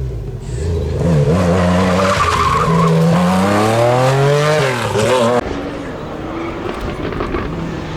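Rally car engine revving hard under acceleration, its pitch climbing for several seconds. The sound cuts off abruptly about five seconds in, leaving a quieter, lower engine sound.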